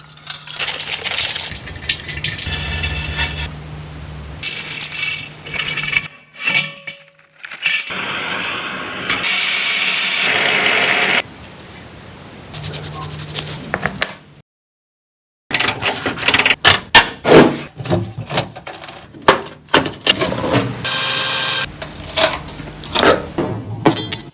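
Workshop sounds of hands and tools working on an old car: scraping and rattling, a steady hiss for a few seconds, then a quick run of knocks and clatters, broken by a brief silence.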